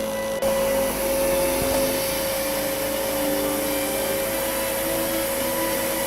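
Helicopter in flight: steady turbine whine and rotor rush, with a constant high engine tone. It comes in abruptly about half a second in, over faint background music.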